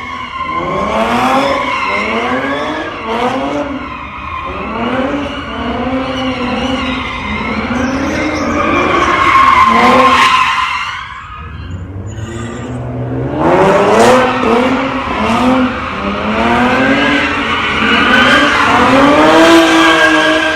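Car engine revving up and falling back in repeated surges about once a second, with tyres squealing and skidding, as a car spinning donuts. The revving eases briefly a little past halfway, then picks up again.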